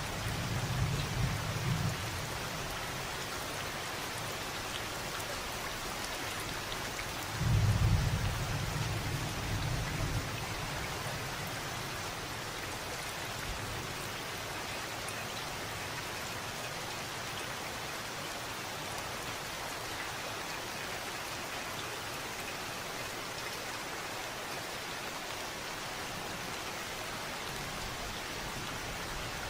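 Steady rain falling, with a low rumble of thunder in the first two seconds and a louder one starting about seven and a half seconds in.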